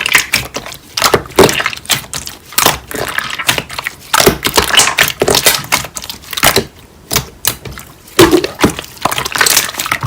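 Slime being squeezed and pressed by hand, giving dense, irregular crackling and popping clicks.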